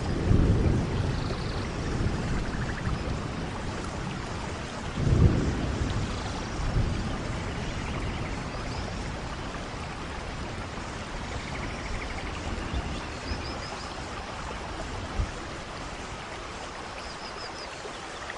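Steady rain falling, with deep low rumbles swelling up near the start and again about five seconds in.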